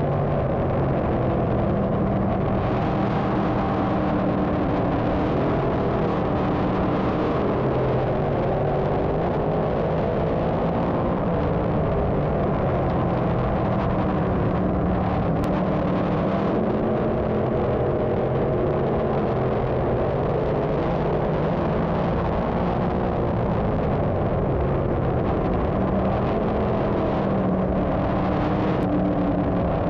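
Dirt modified race car engines running steadily, their pitch drifting slowly up and down.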